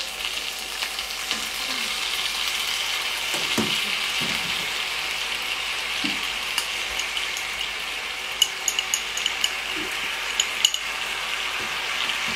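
Chicken wings sizzling in a hot frying pan as soy sauce is poured over them: a steady frying hiss. A quick run of light clicks comes about two-thirds of the way through.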